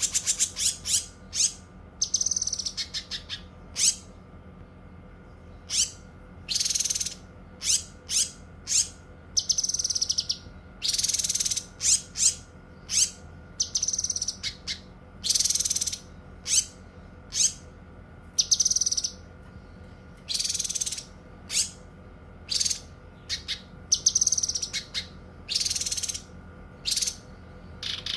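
Cucak kinoi singing: a fast string of short, high chirps mixed with longer trilled phrases of about half a second to a second, over a faint steady hum.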